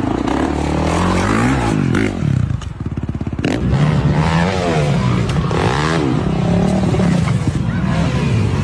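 Motocross dirt bike engines revving, the pitch rising and falling again and again as the throttle is worked. The engines drop off briefly about three seconds in before climbing again.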